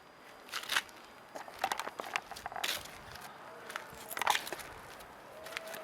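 Irregular crunching and crackling, like steps on dry ground or brush, about a dozen uneven crunches.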